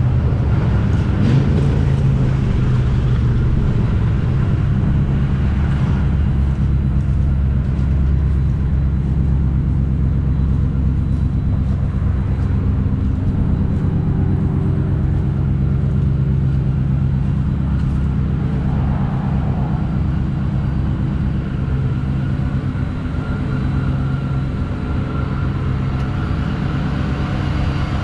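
2016 Ford F-150 Shelby's supercharged V8 idling steadily.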